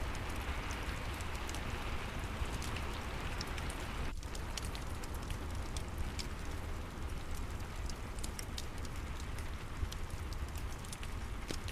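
Steady rain mixed with a wood fire crackling, with short sharp pops scattered irregularly over a continuous hiss and low rumble.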